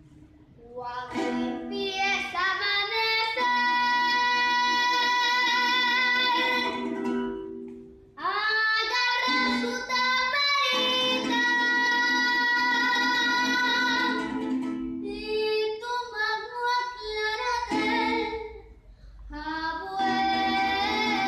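A female singer sings a stylised llanero song with long, drawn-out notes and vibrato, over plucked-string accompaniment. There are brief pauses for breath near the start, about eight seconds in and about eighteen seconds in.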